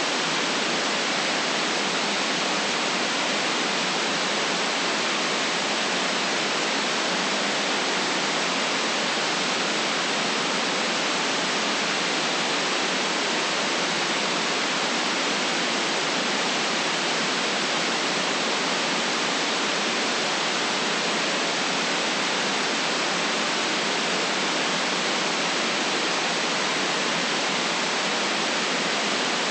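Steady, unchanging white noise: an even hiss with nothing in it rising, falling or breaking, and no deep rumble beneath it.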